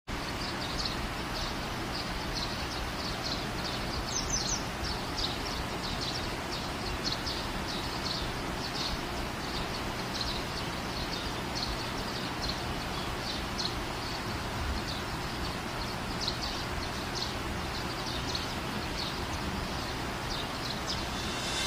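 Bird chirping in a long series of short high notes, about two a second, over a steady hum of background noise.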